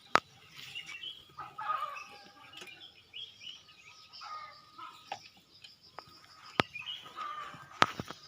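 Sharp clicks of brush cutter parts being handled during assembly, three loud ones: one right at the start and two near the end. Birds chirping and calling in the background.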